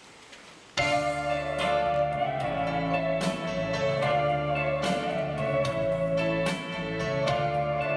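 A song's instrumental introduction starts suddenly about a second in: plucked guitar notes over sustained bass and chord tones, after a moment of quiet room noise.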